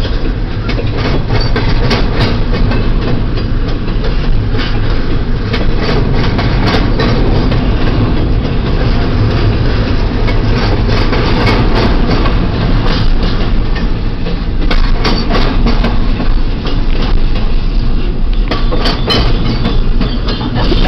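Intermodal freight train's cars rolling past, a steady low rumble with repeated irregular clicks and clunks from the wheels passing over the rail joints.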